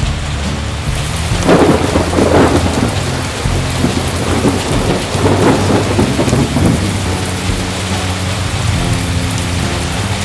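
Heavy rain falling steadily, with thunder rumbling twice: first about a second and a half in, then again from about four and a half to seven seconds in.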